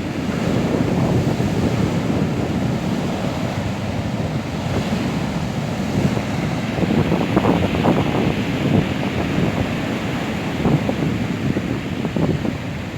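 Stormy sea surf breaking on the shore in a continuous roar, with strong wind buffeting the microphone. A few louder surges come about halfway through and again later.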